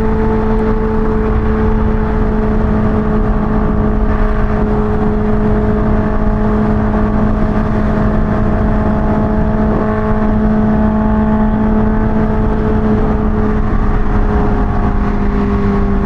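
Kawasaki Ninja H2's supercharged inline-four engine at a steady cruise, a constant drone over a low rush of wind noise. Its pitch drops slightly near the end as the throttle eases.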